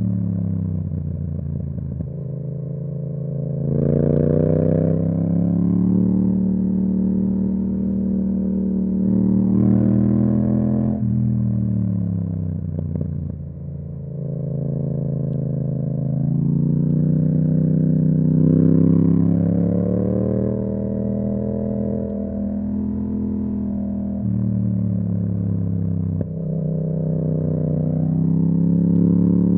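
Yamaha MT-07's 689 cc parallel-twin engine through an Akrapovic exhaust, under way. The pitch climbs and drops several times as the bike accelerates through the gears and eases off.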